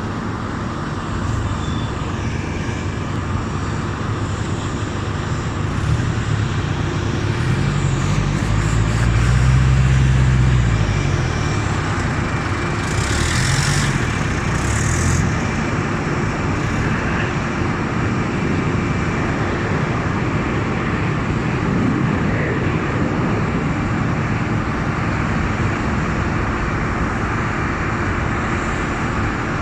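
Four CFM56 jet engines of an Airbus A340-311 running with a steady roar that swells as the aircraft passes, loudest about ten seconds in. Two short hisses come a few seconds after the peak.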